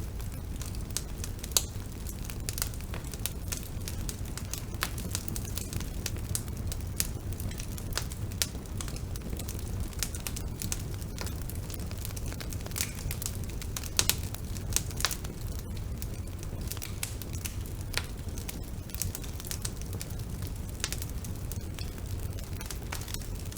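Bonfire burning steadily: a low rumble of flames with frequent sharp crackles and pops of burning wood, a few louder pops now and then.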